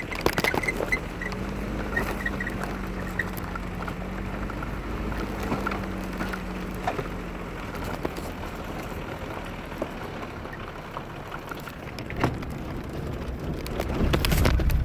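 Volkswagen Golf Mk2 engine running with a low, steady rumble, overlaid by irregular crackling and ticking. It grows louder near the end.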